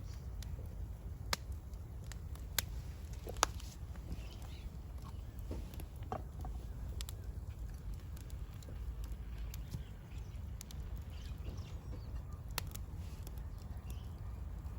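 Outdoor ambience: a steady low rumble with a few sharp clicks or pops and faint bird chirps.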